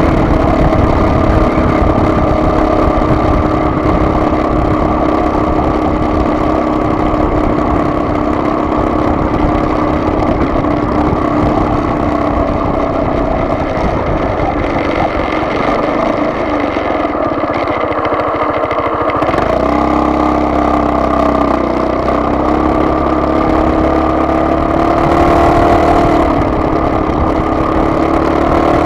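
Vehicle engine running while driving: a steady droning hum. About nineteen seconds in the pitch drops suddenly, then climbs slowly again.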